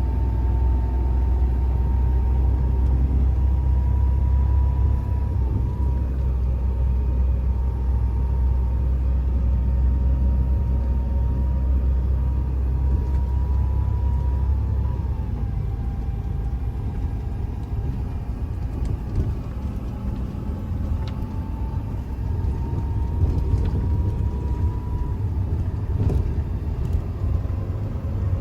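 Truck driving on a winter road: steady low engine and road rumble that eases about halfway through, with a thin steady whine over it that drops slightly in pitch at the same time.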